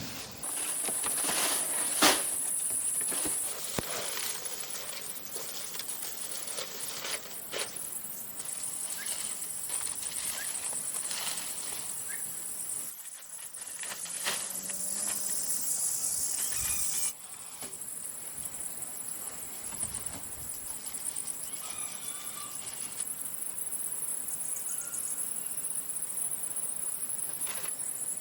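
Forest insects keeping up a steady high-pitched buzzing chorus, with a brief change in the chorus a little past halfway. A few scattered sharp knocks, the loudest about two seconds in.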